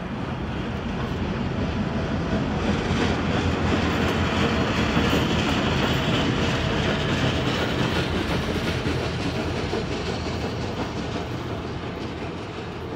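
Long Island Rail Road train passing close by: a steady rumble of wheels on the track that swells to its loudest about five seconds in and then slowly eases off.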